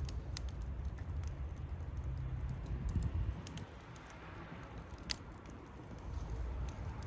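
Wood fire crackling, with scattered sharp pops and snaps, the loudest a little after five seconds in, over a low rumble.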